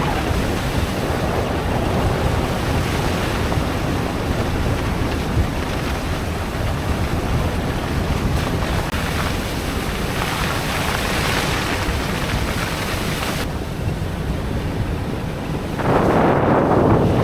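A vehicle driving a rough, muddy gravel road: a loud, steady rushing of tyres, mud spray and wind on the microphone, growing louder near the end.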